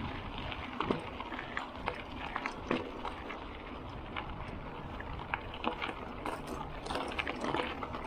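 Bicycle tyres rolling over gravel: a steady low rumble scattered with irregular sharp crunches and clicks of stones.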